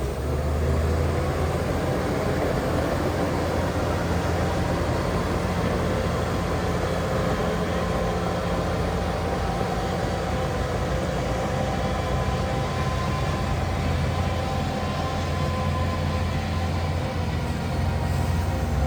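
Heavy diesel earthmoving machinery running steadily under work: a deep engine drone with a faint whine above it.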